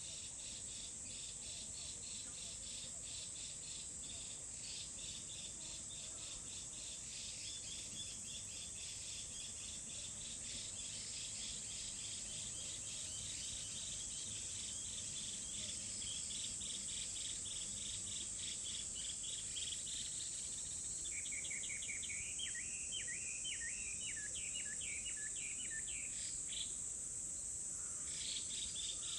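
Insects chirping in a rapid, even pulse over a constant high-pitched buzz. About two-thirds of the way in, a small bird sings a quick run of twittering, sliding notes for several seconds.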